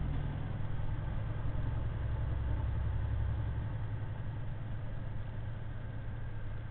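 Semi-truck running empty, heard from inside the cab: a steady low engine drone with road noise. The low rumble eases a little about three and a half seconds in.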